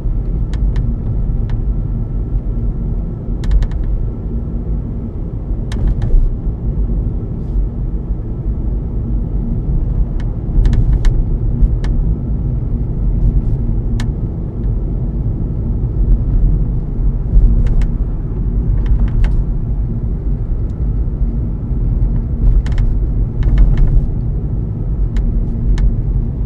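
Lexus IS250 moonroof knocking and squeaking: short, sharp clicks come at irregular intervals, a few seconds apart and sometimes in quick pairs. Under them is the steady low rumble of road noise in the moving car's cabin.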